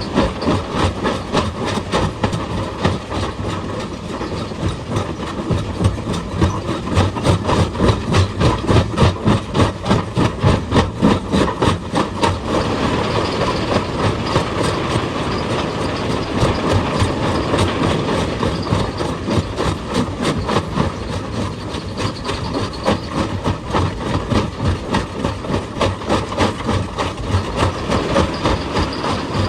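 Excavator-mounted hydraulic rock breaker hammering on stone: a rapid, steady train of sharp blows, several a second, over the running engine of the excavator.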